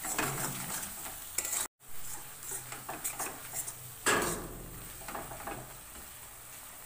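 Wooden spatula stirring and scraping sliced onions and spices frying in oil in an aluminium kadai, with the oil sizzling throughout. The sound cuts out for a moment about two seconds in, and there is a louder scrape about four seconds in.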